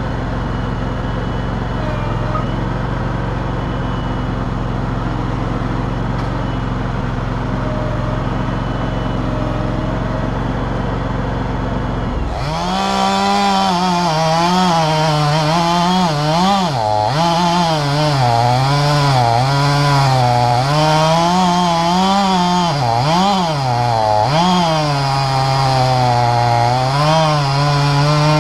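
A steady low engine idle, then about twelve seconds in a two-stroke chainsaw goes to full throttle and cuts through a soft, rotten log. Its high whine dips in pitch and recovers again and again as the chain loads in the wood.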